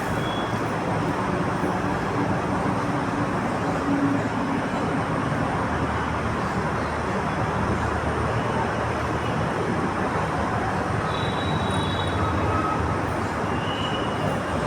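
Steady rumble of vehicle and road traffic noise.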